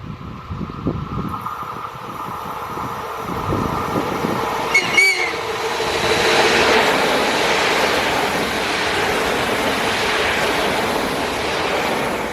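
BDZ series 32 electric multiple unit giving a short horn blast about five seconds in, then running past with a loud, steady noise of wheels and running gear.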